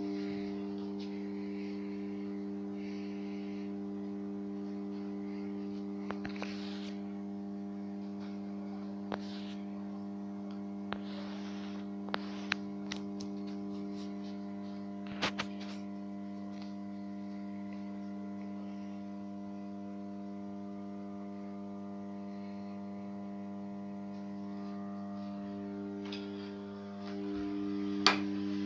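The 250 W two-winding ballast choke of a ЖКУ-15 high-pressure sodium street light is humming steadily at mains frequency, a low electrical drone. A few faint ticks are scattered through it, and near the end the hum dips briefly and returns with a slightly changed tone.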